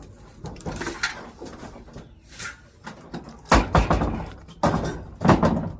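A few hard knocks and clatters from objects being handled. The loudest three come in the second half, each with a short ringing tail.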